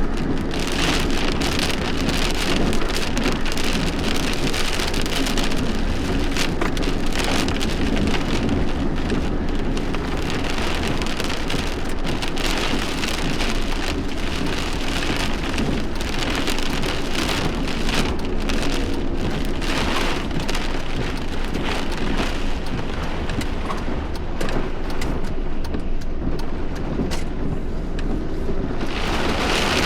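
Heavy thunderstorm rain falling steadily, with many individual drops striking close by over a constant low rumble.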